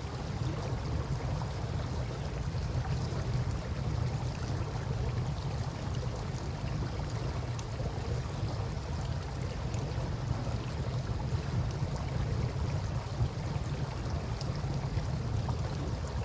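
Steady wash of river water with a low rumble, and a campfire giving occasional faint crackles and pops.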